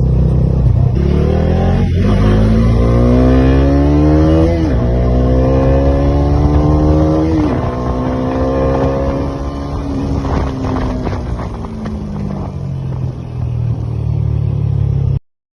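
Motorcycle engine accelerating through the gears, its pitch rising and dropping back at two gear changes, then easing off as the bike slows. The sound cuts off suddenly near the end.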